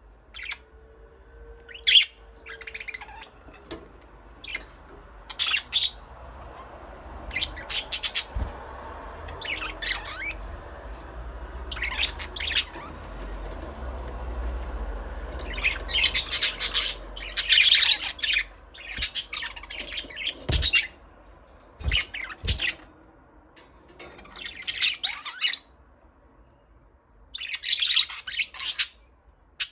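Pet budgerigars chirping and squawking in short, irregular bursts of high calls, thickest from about halfway through and again near the end.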